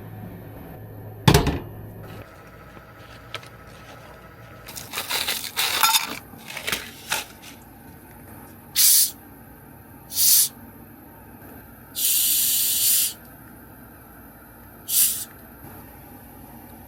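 A single sharp knock about a second in, then a series of short hissing sprays, one lasting about a second.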